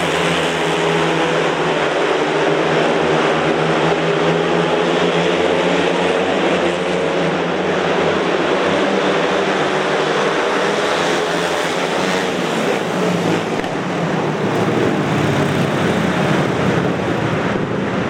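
Speedway motorcycles racing, their 500 cc single-cylinder methanol engines running hard together at high revs, the pitch wavering steadily.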